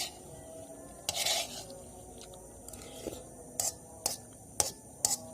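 Eating at a bowl of instant noodles: a short scrape about a second in, then several sharp clicks of a utensil against the dish.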